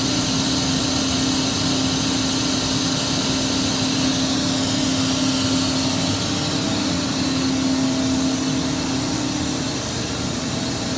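Boiler under a fire test running with a steady hiss and a constant low hum, easing off slightly in the second half.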